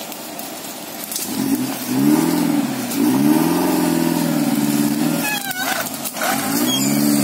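Suzuki Jimny's engine revved in three surges, its pitch climbing and then dropping back each time, as the off-roader works its wheels in a deep rut.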